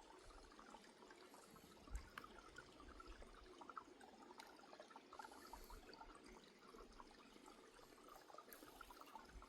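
Near silence with faint running water, as of a distant stream or waterfall, and a soft click about two seconds in.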